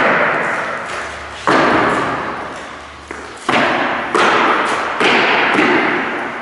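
A series of sharp impacts, about five, each hitting suddenly and ringing out over a second or so before the next.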